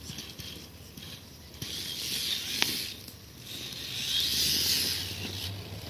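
Radio-controlled scale trail truck's motor and gears whirring in two bursts as it crawls, with a sharp click about two and a half seconds in.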